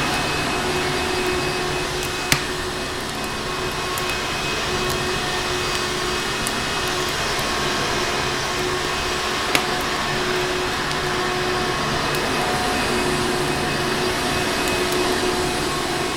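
Vacuum cleaner running with a steady drone, under the scattered crackle of a wood fire, with sharp pops about two seconds in and again near the middle.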